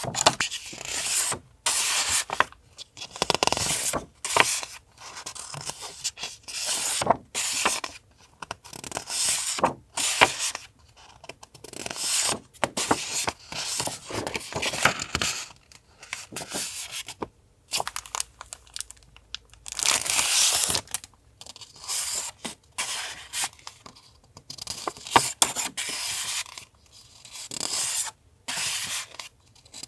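Paper being handled close to the microphone: a string of short rustling, rubbing and tearing strokes, one every second or two.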